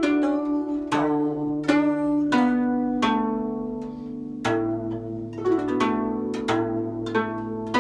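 Guzheng playing a slow phrase of plucked notes, about one a second, each ringing on over sustained low bass notes, with one note bent slightly in pitch about halfway through.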